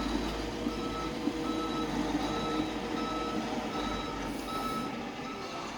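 A farm vehicle's reversing alarm beeping about once a second over a steadily running engine.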